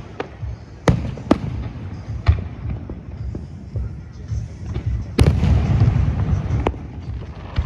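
Aerial fireworks shells bursting overhead: a string of sharp bangs spaced a second or so apart, with the heaviest burst about five seconds in followed by about a second of crackle.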